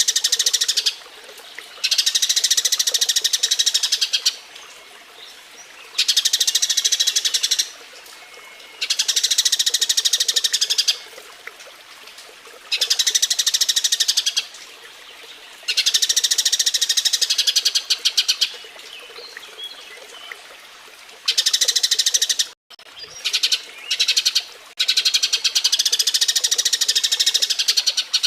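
Eurasian tree sparrow (burung gereja) giving its rapid, excited breeding chatter: dense runs of high chirps in bouts of one to three seconds, with short pauses between them.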